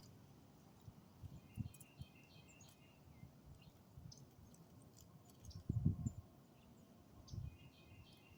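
Faint bird chirps in two short runs of quick, repeated notes, with a few low thuds and knocks between them, the loudest about six seconds in.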